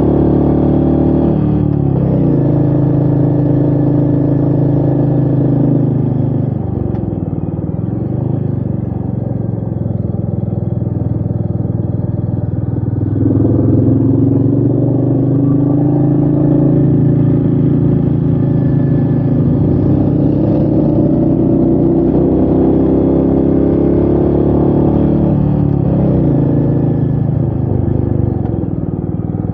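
Royal Enfield Meteor 350's single-cylinder engine pulling the bike uphill. Its pitch drops about two seconds in and again around seven seconds, climbs near thirteen seconds, and falls once more near twenty-six seconds, as the rider changes gear and throttle.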